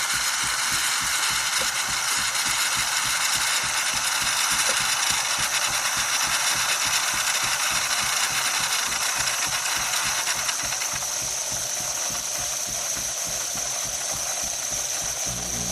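Philips Series 3300 fully automatic espresso machine running, a steady mechanical whir and rattle with high-pitched tones; the sound thins about two thirds of the way through, and a low hum starts at the very end.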